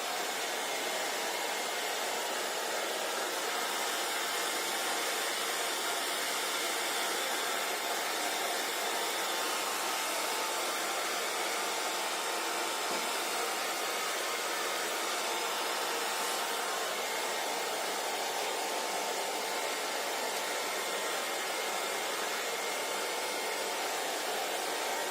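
Hair dryer running steadily: an even rushing hiss of blown air with a faint motor whine, unchanging in level.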